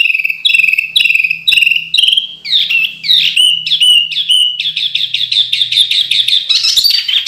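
Songbird singing loud, sharp downslurred whistled notes about two a second, breaking into a fast rapid-fire trill about halfway through and shifting to higher, busier phrases near the end: the sharp, tight bursts ('tembakan') prized in a masteran training song.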